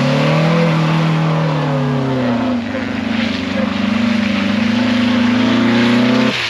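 Vehicle engine revving hard under load. The pitch climbs briefly in the first second, eases off, then holds steady at high revs for several seconds before dropping away at the very end.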